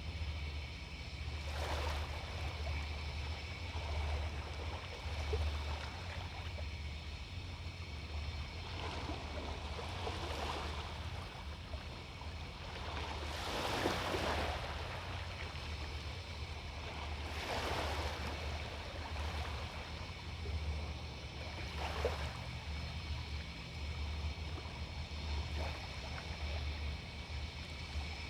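Sea waves breaking and washing up the beach, each surge rising and falling every few seconds, the biggest about halfway through. A steady low rumble runs underneath.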